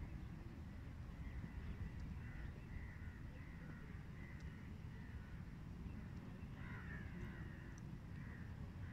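Birds calling again and again, short calls with a busier cluster about seven seconds in, over a low steady rumble.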